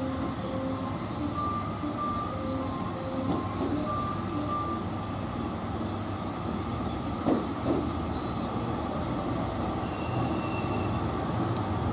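Steady rumble of a train at a railway station, with a run of short beeping tones in the first half. Two sharp clacks come about seven seconds in.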